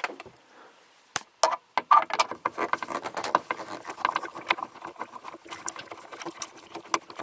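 Electrical wires and wire nuts being handled and pushed up into the wiring compartment of a rooftop camper air conditioner: dense scratchy rustling with many small clicks and knocks.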